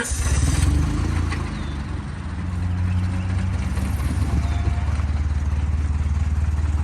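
Car engine idling steadily just after starting, a low, even running note.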